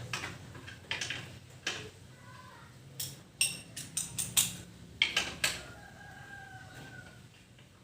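Sharp metal clinks and knocks of hand tools on a motorcycle exhaust being taken off, coming in quick clusters around the middle. A rooster crows once in the background near the end, after a short call earlier.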